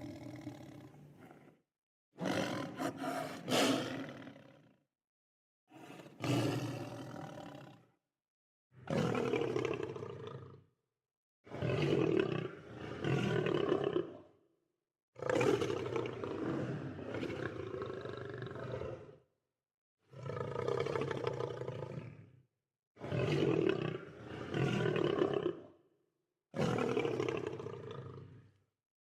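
Lion roaring: a string of about nine roars, each two to four seconds long, with short gaps of dead silence between them.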